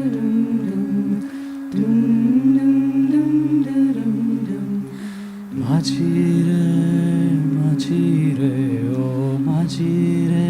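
A cappella vocal group singing a slow Hindi song, the voices holding hummed chords that shift gently. The sound dips briefly about a second in and again around five seconds in, then a new fuller chord comes in.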